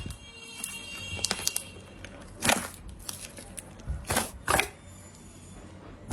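Slime being pressed and squeezed, giving sharp crackling pops as air pockets burst: one about halfway in, then a quick pair near the end, with smaller clicks between.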